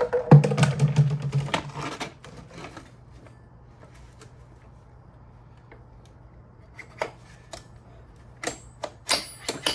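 Clattering clicks and knocks of the SDS-max hammer drill and its 6-inch core bit being handled. They come fast and dense in the first two seconds over a low hum, then as a few scattered sharp clicks near the end.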